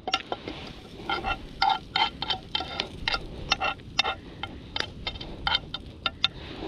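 A metal utensil clinking and scraping against a cooking pan in many quick, irregular strokes, each with a short metallic ring, as food is worked loose from the pan.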